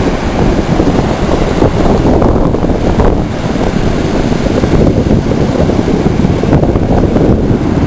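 Strong storm wind buffeting the microphone: a loud, irregular low rumble with no steady tone.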